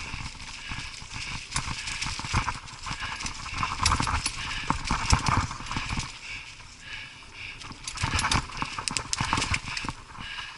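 Mountain bike rattling and knocking over a rough dirt trail, with many irregular sharp clatters from the frame and drivetrain.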